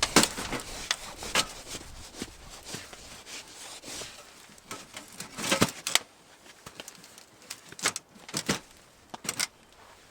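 A series of irregular clicks, knocks and rustles over a steady low background noise that falls away about six seconds in.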